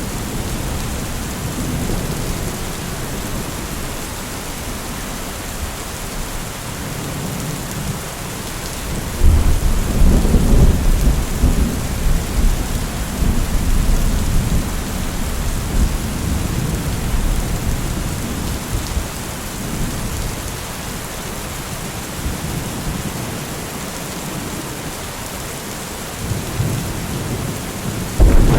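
Steady heavy rain with thunder: a loud, low rolling rumble breaks about nine seconds in and fades slowly over several seconds, and another rumble begins near the end.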